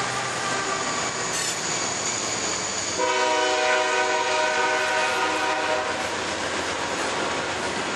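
Diesel locomotives of a CSX freight train passing close by, engines running and wheels rolling over the rails. A train horn sounds from about three seconds in for about three seconds.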